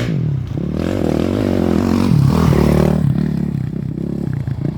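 Off-road race motorcycle going past, its engine revving up and down between gears, loudest about two and a half seconds in.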